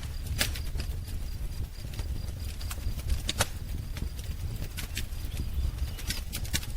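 Wood fire crackling: irregular snaps and pops over a steady low rumble of the flames, with sharper pops about half a second in and a little after three seconds.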